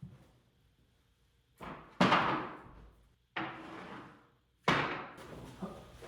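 Four sudden knocks, each trailing off over about half a second to a second, the second the loudest.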